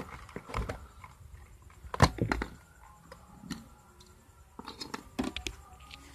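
Scattered clicks and knocks of metal parts and a tool being handled while an electric clothes iron is taken apart. The sharpest knock is about two seconds in, and a quick run of clicks comes near the end.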